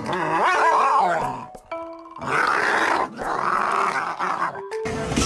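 A dog vocalizing in short stretches, with music heard as well.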